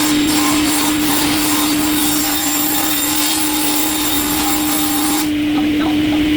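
Industrial wood chipper running with a steady hum, overlaid by the harsh grinding of wood being chipped, which cuts off suddenly about five seconds in.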